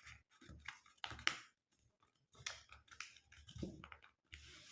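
A sheet of A4 colour paper being folded into a cone by hand: faint, scattered rustles and crisp little crinkles as the paper is handled and creased.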